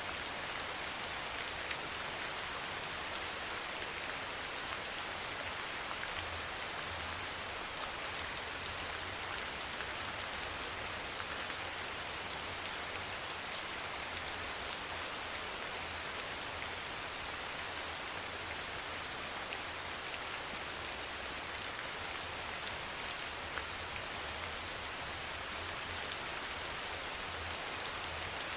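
Steady rain falling and pattering on a surface, an even hiss with many small drops.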